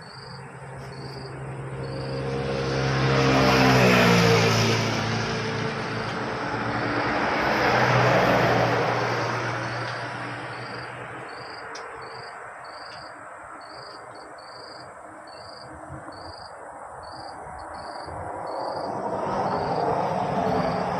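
Vehicles passing on the road one after another. The first passes about four seconds in, its engine note falling in pitch as it goes by, a second follows near eight seconds, and a third builds toward the end. Between the passes, insects chirp in a steady pulsing rhythm, about two chirps a second.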